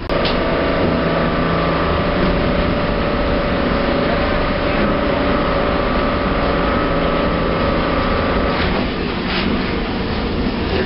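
Lisbon street tram running along its line, heard from on board: a steady rumble with a held whine that stops about nine seconds in.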